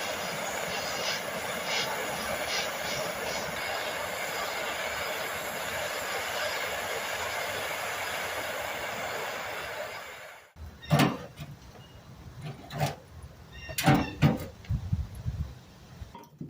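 Steady rushing hiss of the heat applied to a rusted steel toolbox latch to soften it before bending, cutting off about ten seconds in. Then several sharp metal knocks and clinks follow.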